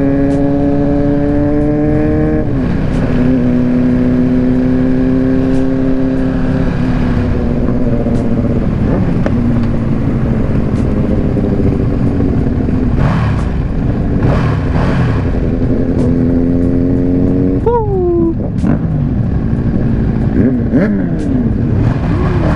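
Motorcycle engines running during a ride, the engine note holding steady, dropping about two seconds in and then settling again. Near the end a quick rev rises and falls sharply, followed by shifting, uneven engine notes.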